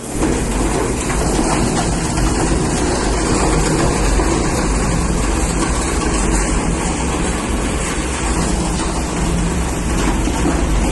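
Plastic crusher (granulator) running: a steady mechanical noise with a low hum underneath.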